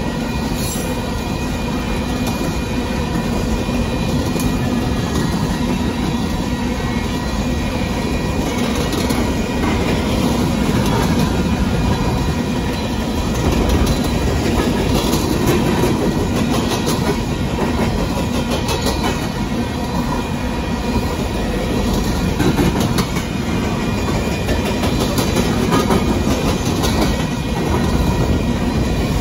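Union Pacific coal train's open-top coal cars rolling past close by: a steady rumble of steel wheels on the rails, with repeated clicks as the wheels pass over the rail joints.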